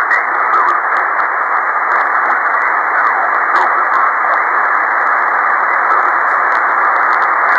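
Shortwave receiver hiss and static in single-sideband mode: a steady band of noise with faint traces of weak signals under it and scattered light clicks of static.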